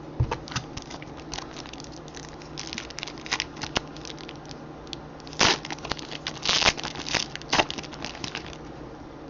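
Baseball card pack wrapper being torn open and crinkled, with cards rustling and sliding against each other. Irregular short crackles, the loudest bunched together a little past halfway.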